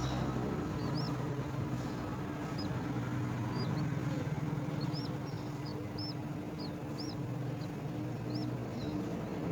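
Short, thin, high bird chirps repeating irregularly, about one or two a second, over a steady low hum.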